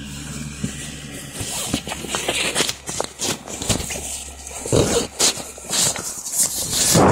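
Rubbing, crinkling and bumping of an inflatable plastic toy being handled as a small camera is pushed inside it: irregular clicks and rustles, louder towards the end.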